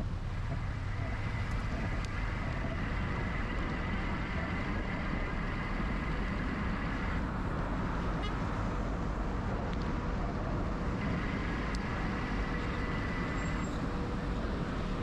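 Steady wind and road noise from riding an electric bike along city streets, with passing traffic. A thin, steady high whine comes in twice and cuts off each time.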